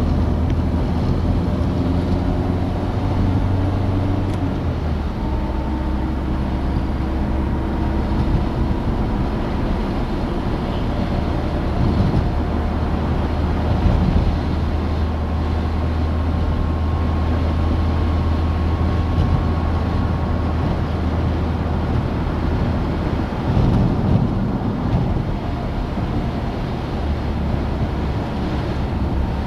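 Citroën DS four-cylinder engine running while the car drives, a steady low drone under a haze of wind and road noise. The engine note drops about five seconds in and shifts again about three quarters of the way through.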